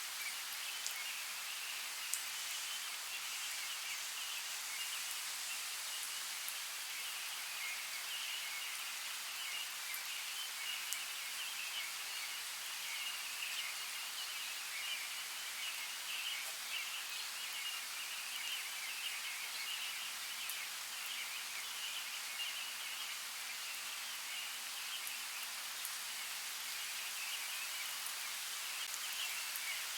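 Steady rain: an even high hiss with a fluttering band in the upper middle and a few faint drop ticks.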